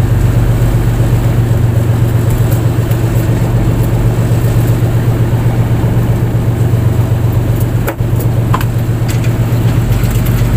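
Fishing boat's engine running steadily with a deep, even hum, dipping briefly about eight seconds in, with a few light clicks near the end.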